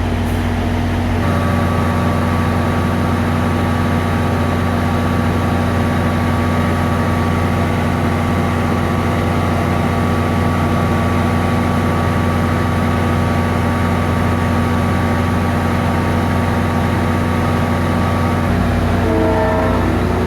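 GP40PH-2 diesel-electric locomotive running steadily, a loud, even engine drone with a high steady whine over it that starts about a second in and stops near the end. A few wavering tones sound briefly at the very end.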